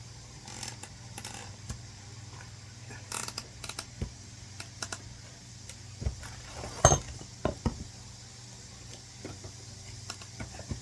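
Scattered wooden knocks and clatters as split oak firewood and a hatchet are handled, with one sharp knock about seven seconds in, over a low steady hum.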